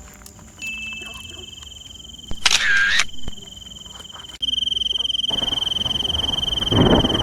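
Insects trilling, a steady high pulsing tone that gets louder about four and a half seconds in. A brief squeaky burst comes about halfway through, and a rustling noise rises near the end.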